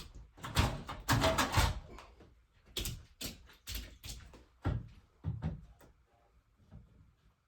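A run of irregular knocks and clatters, densest and loudest between about half a second and two seconds in, then thinning to scattered single knocks that die away after about six seconds.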